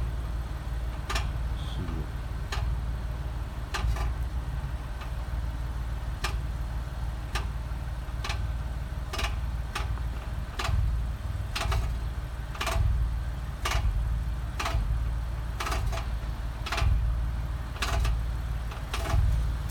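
Alfa Romeo 159 idling with a sharp tick or rattle from the exhaust about once a second: the abnormal noise was traced to the catalytic converter.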